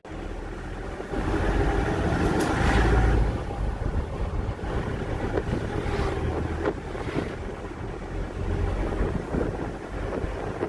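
Wind buffeting the microphone over the low rumble of a moving vehicle, with a few faint knocks.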